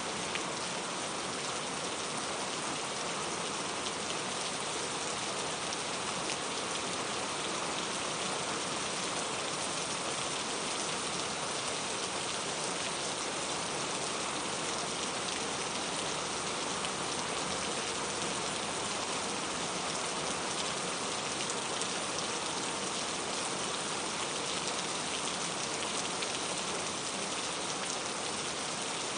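Steady rain falling, an even hiss of many small drops on hard surfaces.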